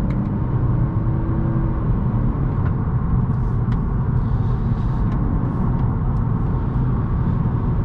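2018 Honda Accord 1.5T Sport's turbocharged 1.5-litre four-cylinder engine running steadily, mixed with tyre and road noise as the car drives along.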